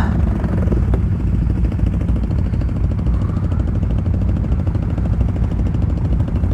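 ATV engine running steadily under load while the machine climbs a long hill.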